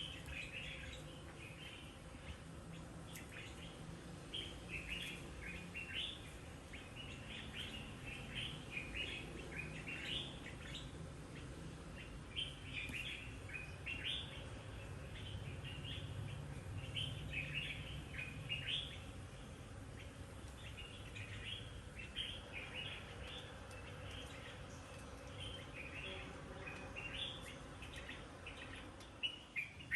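Birds chirping and singing steadily in quick, short calls over a low background hum. The calls thin out for a few seconds past the middle.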